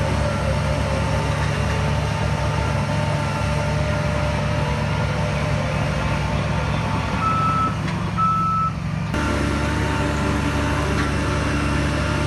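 Heavy diesel earthmoving machine running steadily under load. A reversing alarm gives two short high beeps about seven and eight seconds in.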